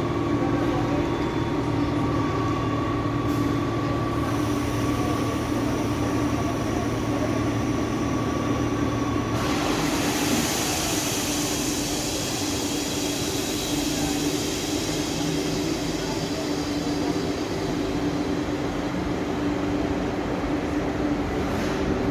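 SNCF CC 6500 electric locomotive running, a steady hum with several held tones. About nine seconds in, the highest tone stops and a high rushing hiss comes in.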